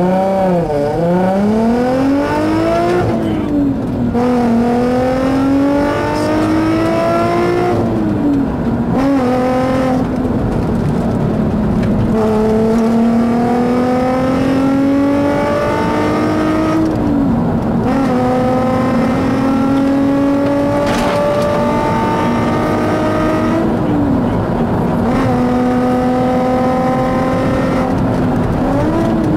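Volkswagen Golf Mk4 R32's 3.2-litre VR6 engine, heard from inside the cabin, accelerating hard from a standing start: its pitch climbs through each gear and drops at every upshift, several times over, as the car reaches high speed.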